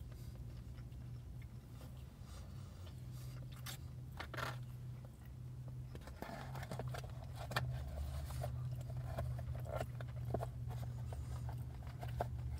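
A person chewing a bite of breaded, sauce-coated chicken nugget: soft irregular crunching and wet mouth smacks over a steady low hum.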